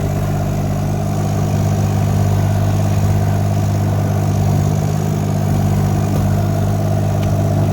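Mini excavator engine running steadily at a constant speed, with a deep, even drone.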